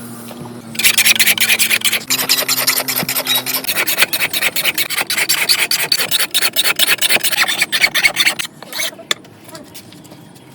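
A hand abrasive, such as a file, scraping rapidly back and forth over a steel knife blade made from a motorcycle sprocket. The strokes start about a second in, run on steadily, and thin out to a few last strokes near the end.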